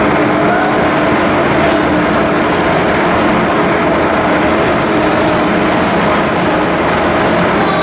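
A ship's diesel engine running steadily and loudly, a continuous mechanical noise with a steady hum.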